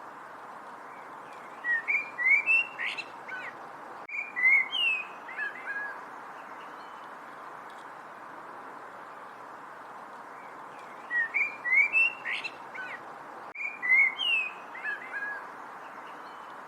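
A songbird singing bouts of quick chirps and whistled slurs over a steady hiss. The same phrase comes twice, about nine seconds apart.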